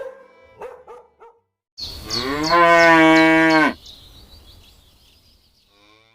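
A cow mooing: one long, steady call of about two seconds, preceded by a few short barks from a dog near the start. Faint high chirps follow the moo.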